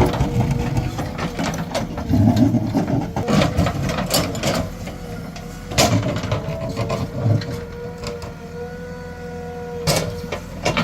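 JCB 3DX Plus backhoe loader working: its diesel engine runs under load with a steady whine, while repeated clanks and knocks of the bucket against stones sound over it, two strong ones about six and ten seconds in.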